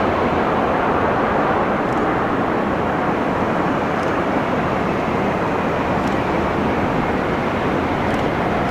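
Steady roar of an aeroplane during landing.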